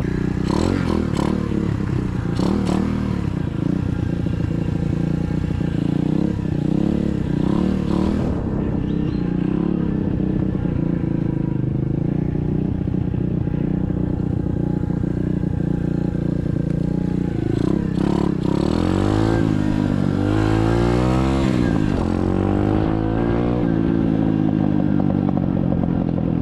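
SSR 125cc dirt bike's single-cylinder four-stroke engine running steadily while ridden, with a few clattering knocks early on; in the last third it revs up and down several times as the bike accelerates and shifts gears.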